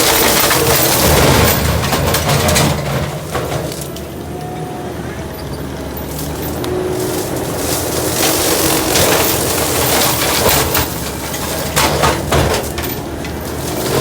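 Skid-steer-mounted Blue Diamond severe duty brush cutter mulching brush and small trees: the engine drones steadily while the cutter breaks wood with dense cracks and splintering. It eases off for a few seconds in the middle, then bites into wood again.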